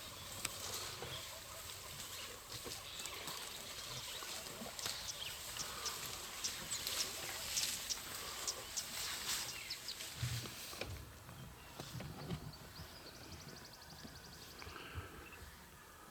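Small birds giving many short, sharp, high chirps over a steady outdoor hiss, with a rapid high trill near the end.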